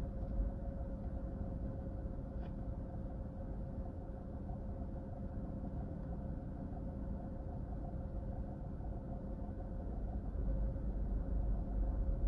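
Car interior noise while driving: a steady low engine and road rumble with a faint constant whine, getting louder near the end.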